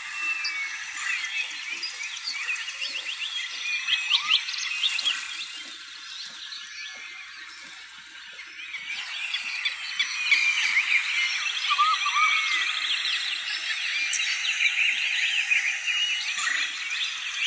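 Many birds chirping and calling at once, a dense chorus of short whistles and trills. It thins out about six seconds in and builds up again a few seconds later.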